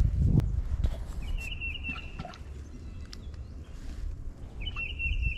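A songbird calling twice, each call a quick run of high notes lasting about a second. Under it is a low wind rumble on the microphone.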